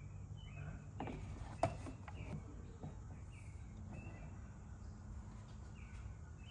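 Faint background of short, scattered bird chirps over a low steady hum, with a few light clicks in the first couple of seconds.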